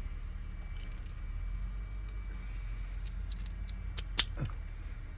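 Light clicks and taps of small metal lock parts being handled while wafers are fitted into a Honda door lock cylinder, with one sharper click about four seconds in, over a steady low hum.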